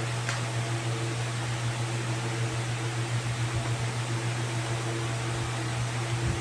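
Steady low machine hum with a continuous hiss, like a running electric fan or air conditioner.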